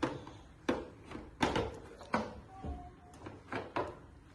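A series of sharp knocks and clunks, about eight in four seconds at uneven spacing, like things being handled or a door or drawer being moved.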